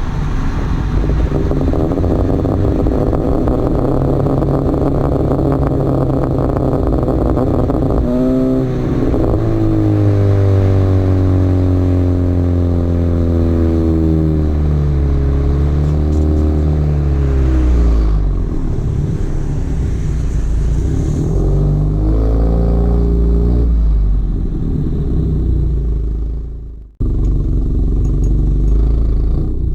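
Exhaust of a Honda Accord 1.5T turbocharged four-cylinder running a catless PRL downpipe and frontpipe into a Thermal R&D exhaust, droning while the car is driven. About eight seconds in the engine pitch changes sharply, then glides slowly down over the next several seconds. Near the end the sound cuts out for a moment and then resumes.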